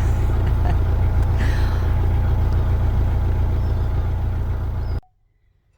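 Narrowboat's diesel engine running steadily with a low, even rumble. It cuts off abruptly about five seconds in.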